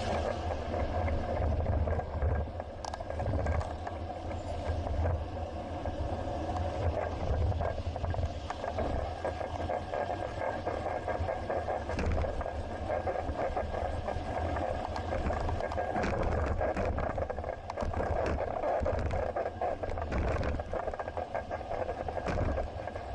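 Riding noise picked up by an action camera on a moving bicycle: steady wind and rolling rumble with street traffic. A faint steady high tone runs under it, and there are scattered small clicks and rattles.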